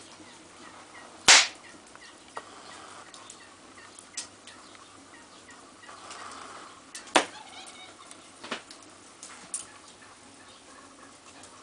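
Firewood crackling in a corner fireplace at its first firing, with several sharp pops scattered through, the loudest about a second in and another strong one about seven seconds in.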